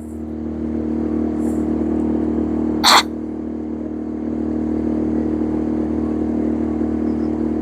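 Boat engine running steadily, picking up over the first second or so. A single short, sharp noise comes about three seconds in.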